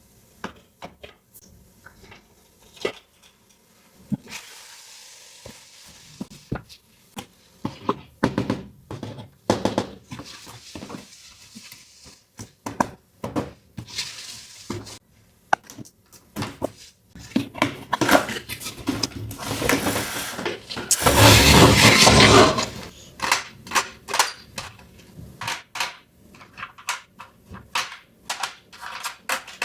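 Small plastic toy pieces and their packaging being handled, making a string of irregular clicks and taps. About two-thirds of the way through there is a louder rustle that lasts a second or so.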